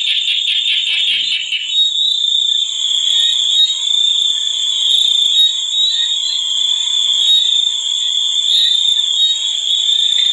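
Chorus of calling insects: a steady high-pitched drone, with a rapid pulsing trill over it that stops about two seconds in.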